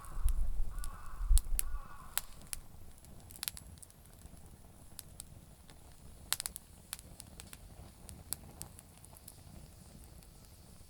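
Campfire of damp firewood crackling, with scattered sharp pops and snaps; a low rumble sits under the first two seconds.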